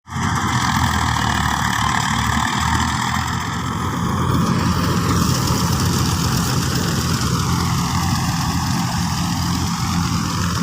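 Diesel tractor engine running steadily, driving a tractor-mounted combine harvester.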